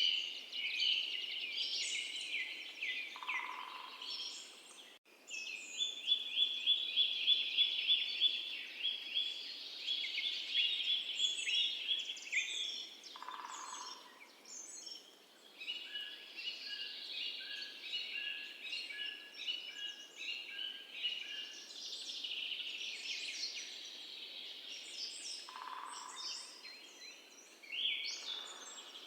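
Birdsong: several birds chirping and singing rapid trills throughout, with a short lower call three times, roughly every ten seconds.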